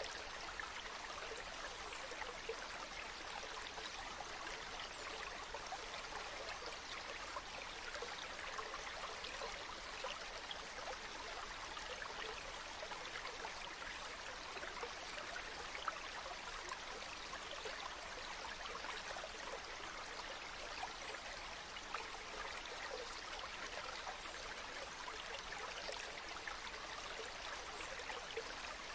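Water flowing in a small stream, babbling steadily without a break.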